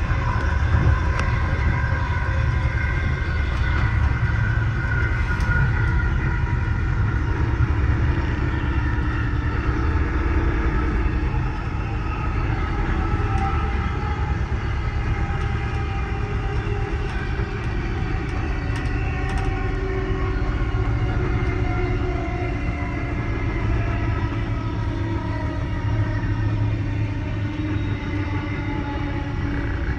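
Running noise of an Amtrak Amfleet coach rolling over the track, heard inside its rear vestibule: a steady heavy rumble of wheels on rail, with faint whining tones that drift slowly in pitch.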